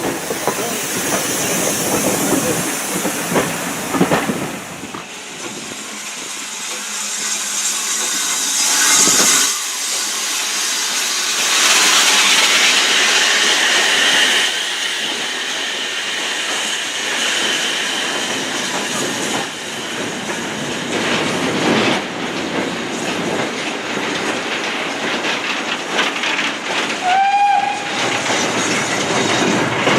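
Steam-hauled train running, with hissing steam and the clatter of carriage wheels over rail joints.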